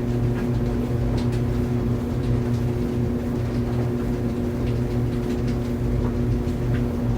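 Clothes dryer running: a steady motor-and-drum hum with a constant low tone, and faint small clicks scattered through it.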